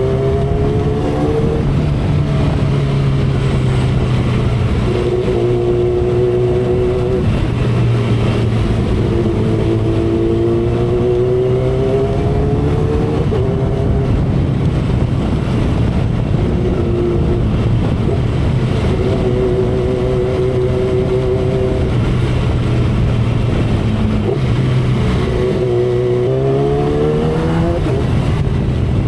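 2012 Kawasaki Ninja ZX-10R inline-four engine running at expressway speed under heavy wind noise. Its pitch climbs and eases several times as the throttle is worked, with a steeper climb near the end.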